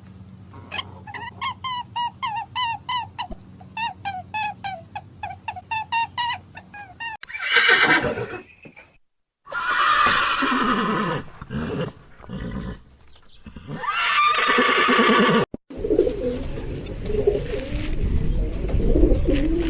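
A sequence of animal calls. First comes a fast, evenly repeated run of short high chirps, about three a second. Next are loud horse neighs and whinnies with falling pitch. Near the end, pigeons coo low and steadily.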